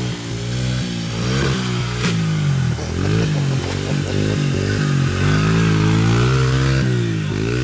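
Dirt bike engine revving, its pitch rising and falling again and again as the throttle is worked, with a sharp knock about two seconds in.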